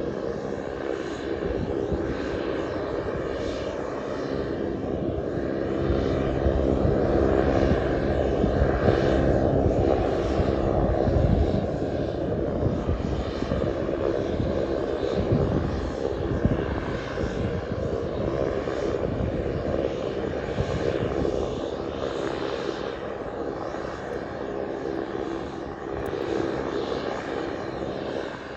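Pilatus PC-12's single PT6 turboprop engine running with its propeller turning. The engine holds a steady tone, grows louder about six seconds in, and eases back somewhat after about twelve seconds.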